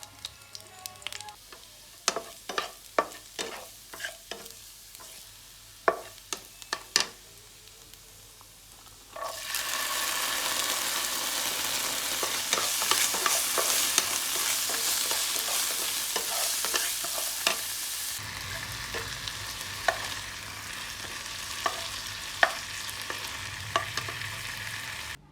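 Sharp knocks and clinks, like a utensil against a pan, then food frying in hot oil: a loud sizzle starts suddenly about nine seconds in, eases somewhat with a low hum under it about halfway through, and stops at the end.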